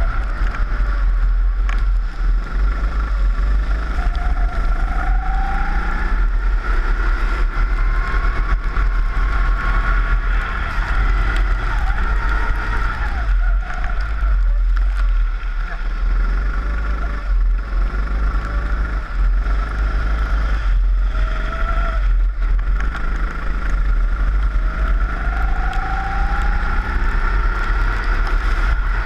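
Four-stroke rental kart engine heard onboard, revs rising on the straights and dropping off into the corners again and again, with heavy wind rumble on the microphone.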